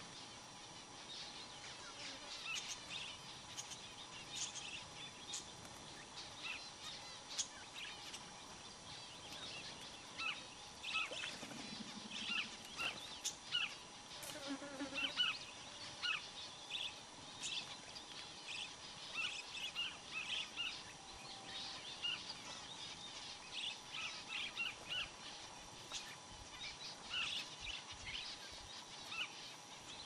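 Small birds chirping, with many short, quick calls overlapping throughout, and a brief low buzz about a third of the way in.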